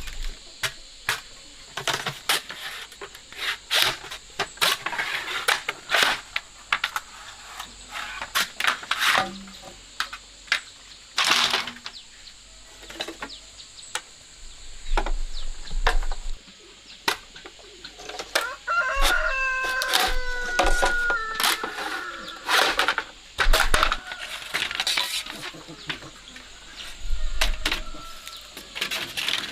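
Farmyard chickens, with a rooster crowing once about two-thirds of the way in. Scattered sharp clicks and knocks run throughout.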